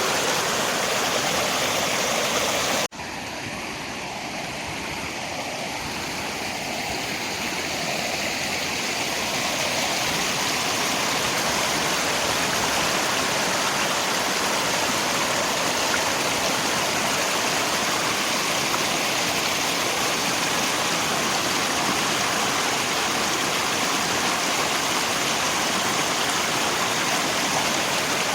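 Steady rushing of river water with rain. About three seconds in, the sound abruptly drops in level and a little in brightness, then slowly swells back to full over several seconds, as at a splice between recordings.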